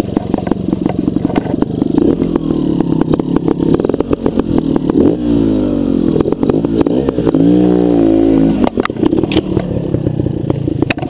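Trial motorcycle engine running close to the microphone with rapid firing pulses, revved up and down twice in the middle, over clatter from the bike working over rough ground.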